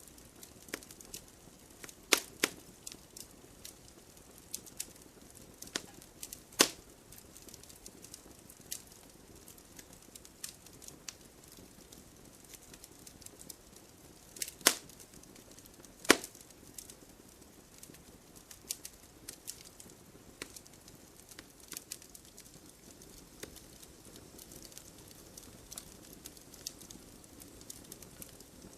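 Wood fire burning in a fireplace, crackling: irregular small snaps over a faint steady hiss, with a handful of louder pops.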